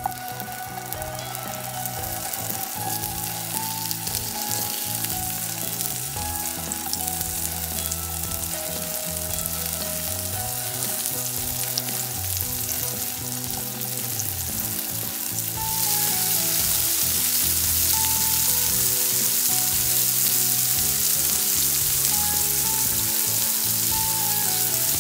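Halved spiny gourds frying in hot oil in a nonstick pan: a steady sizzle that gets louder about two-thirds of the way through as the pan fills.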